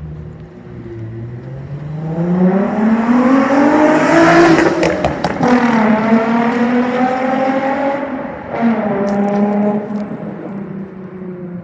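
Nissan Fairlady sports car engine and exhaust accelerating hard, the pitch climbing for about four seconds, dropping at a gear change and pulling up again, with a second drop and pull a few seconds later before it eases off. A few sharp clicks or crackles come at the shifts.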